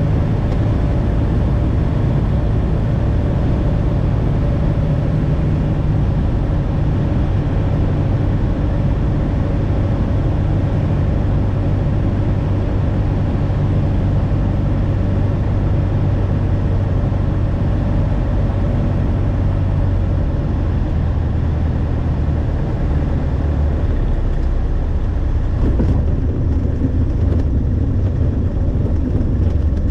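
Light aircraft's piston engine and propeller droning steadily, with a slight change in the engine note about twenty seconds in.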